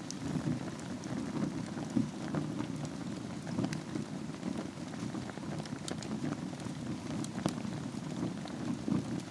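Wood fire burning in a fireplace: a steady low rush of flames with scattered sharp crackles and pops, the loudest pops about two seconds in and near the end.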